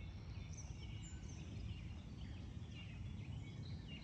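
Several small birds chirping and calling in quick short notes, over a steady low rumble.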